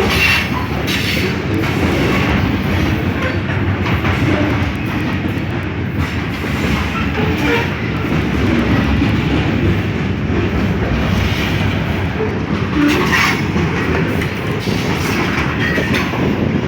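Freight train rolling past, a steady rumble of wagons with the wheels clacking over the rail joints.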